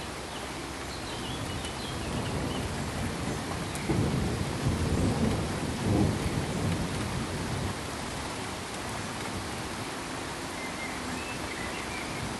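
Steady pink-noise hiss, with a low rumble swelling about two seconds in, loudest in the middle and dying away a few seconds later.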